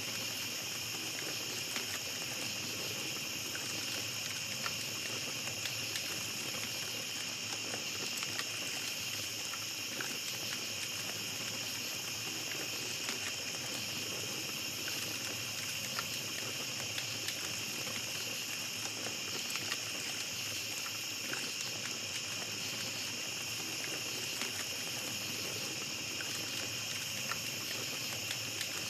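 Small campfire crackling, with scattered small pops, under a steady high chirring chorus of night insects.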